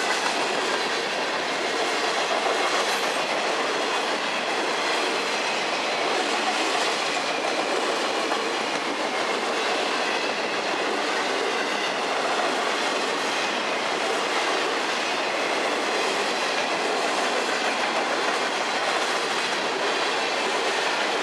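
Freight cars of a long train rolling past close by: a steady noise of steel wheels running on the rails.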